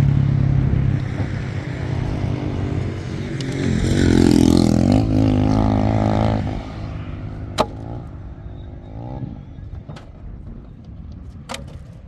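A motor vehicle's engine running, rising in pitch as it revs up about four seconds in, then dying away; a sharp click comes shortly after.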